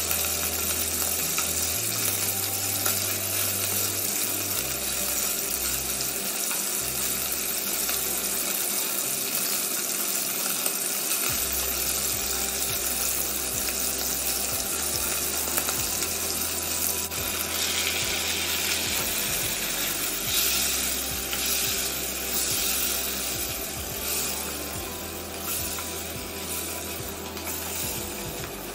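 Beef sizzling in a hot nonstick pan with a steady hiss, turned with tongs. In the second half, louder surges of sizzle recur as the beef, snow peas, baby corn and mushrooms are stirred together.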